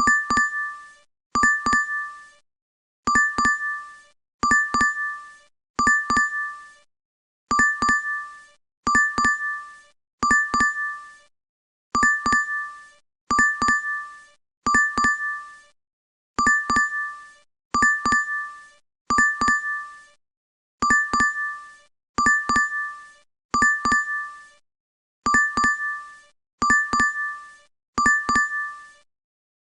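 DoorDash app notification chime repeating over and over: a short two-strike ding that rings and fades. It sounds about every second and a third, in groups of three with a slightly longer pause between groups.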